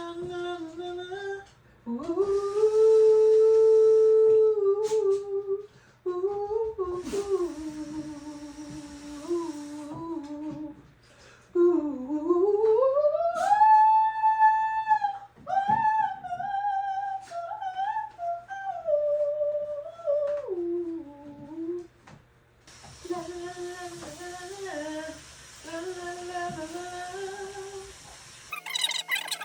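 A single voice humming a wordless melody in a small room, with long held notes and a slide up to a high note about twelve seconds in, over a steady low hum.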